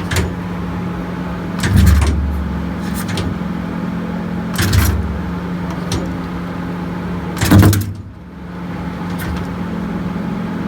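Motorcycle engine running through a left-side aftermarket exhaust, idling steadily with three short throttle blips, about 2, 5 and 7.5 seconds in. After the last blip it briefly dips before settling back to idle.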